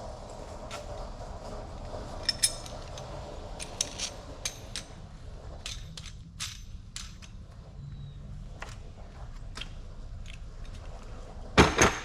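Irregular clicks and knocks of metal hand tools and parts being handled, with a loud clatter near the end.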